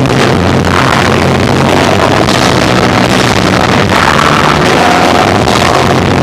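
Live rock band of electric guitar, bass and drums playing, recorded with an overloaded, distorted sound that turns the music into a dense, harsh wash with steady low bass notes.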